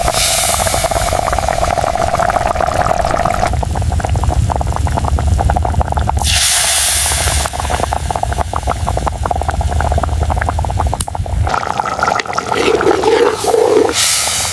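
Rushing, splashing water whose character changes abruptly every few seconds, with stretches of hiss and patches of rapid clicking.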